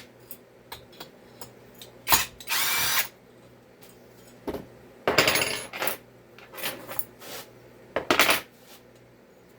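Power drill/driver spinning in four short bursts, the longest lasting almost a second, with small clicks and knocks of tools and parts between them.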